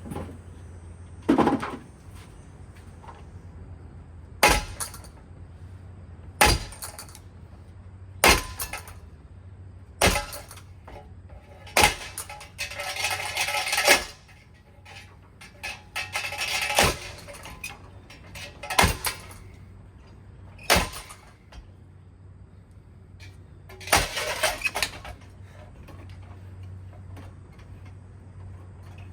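Hampton Bay Waterton ceiling fan being smashed: hard blows land about every two seconds, some followed by a second or two of clattering and breaking pieces, over a low steady hum.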